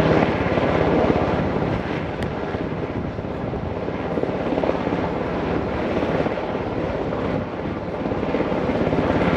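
Coast Guard helicopter's rotor beating fast and steady, with its engine running loud throughout.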